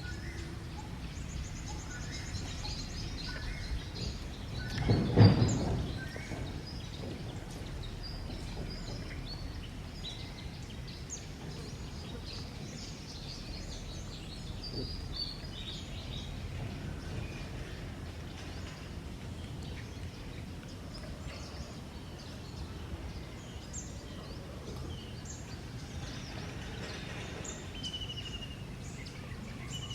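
Outdoor ambience with many short bird chirps and calls over a steady low rumble. A single loud thump with a rustle comes about five seconds in.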